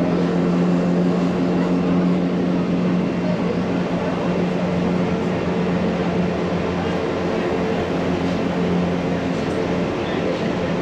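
Electric rack-railway train running, heard from on board: a steady motor hum over the rumble of the running gear.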